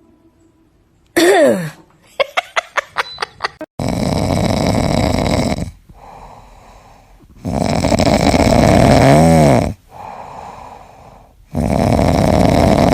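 A pet snoring loudly in three long breaths a few seconds apart, after a brief squeak and a quick run of clicks.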